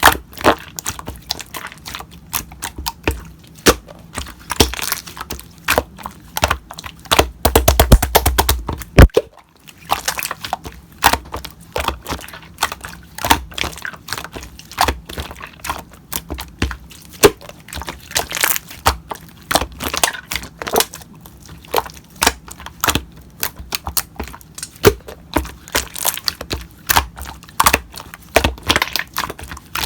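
Slime being pressed, stretched and squished by hand, giving irregular sharp clicks and pops as trapped air bursts. About eight seconds in there is a fast run of crackling that cuts off suddenly, then a brief pause before the popping resumes.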